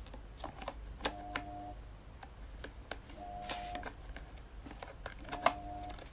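Scattered clicks and knocks of plastic electric-fan parts being handled and fitted back together, the sharpest a little after one second and near the end. A short steady tone of about half a second repeats about every two seconds alongside.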